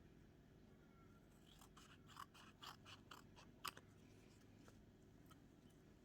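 Faint handling of paper at a craft desk: a short run of crisp clicks and crinkles about two to four seconds in, otherwise near silence.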